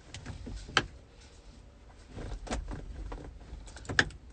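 A few sharp clicks and knocks, the clearest about a second in and near the end: a quick-release aftermarket steering wheel being worked at by hand without coming off.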